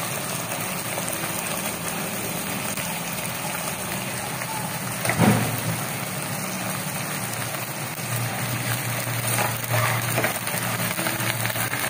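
Chicken pieces in soy-sauce marinade sizzling with onions and ginger in a nonstick wok, a steady hiss. A single sharp knock comes about five seconds in.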